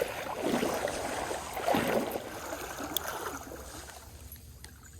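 Moving stream water, with two louder sloshing swells in the first two seconds, then quieter.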